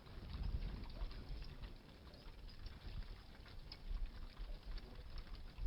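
Faint, scattered light taps and clicks of kitchen utensils at a pan as heavy cream is added to a mushroom sauce, over a low rumble.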